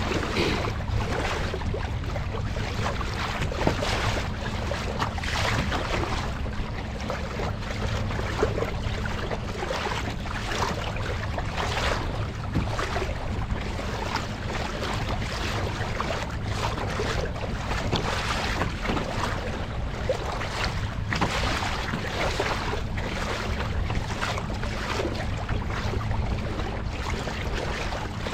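Kayak under way on open water: water splashing and slapping against the hull and wind buffeting the microphone, over a steady low hum.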